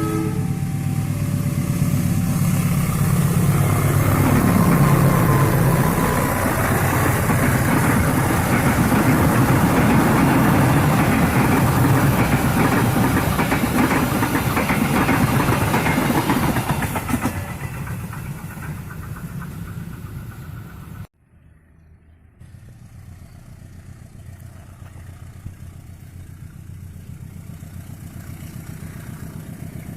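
Diesel-electric locomotive (KAI CC203) passing at speed, its engine drone falling in pitch as it goes by, then a long run of wheel and coach clatter on the rails that fades out. After a brief dropout a little past two-thirds of the way, a quieter, steady rumble builds slowly.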